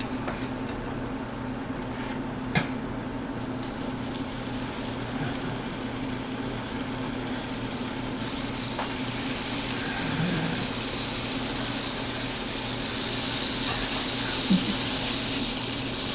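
Chicken pieces frying in melted butter in a skillet: a sizzle that builds from a few seconds in and grows louder toward the end. A sharp knock comes about two and a half seconds in.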